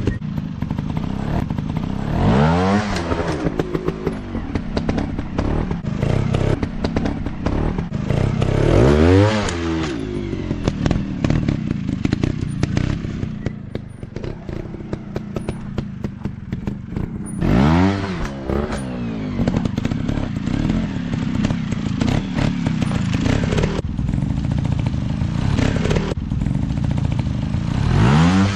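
Dirt bike engine running hard, revved sharply four times in quick rising bursts, with clattering and knocking between the revs.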